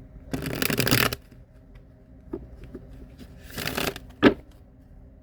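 A deck of tarot cards being shuffled in two short bursts of about a second each, with light card ticks between them. A sharp tap follows near the end and is the loudest sound.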